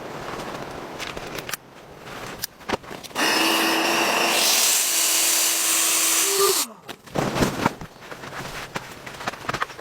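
A small electric power tool motor runs for about three seconds with a steady whine and hiss, then winds down when it is switched off. Scattered knocks and handling clicks come before and after it.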